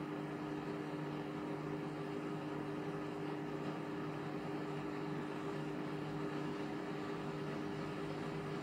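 Indesit MTWC71252WUK washing machine running mid-cycle with a steady motor hum.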